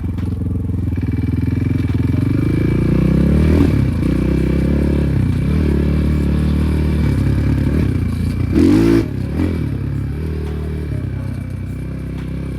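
Enduro motorcycle engine running under a rider, its pitch rising and falling with the throttle, with a short louder burst of revs about two-thirds of the way through.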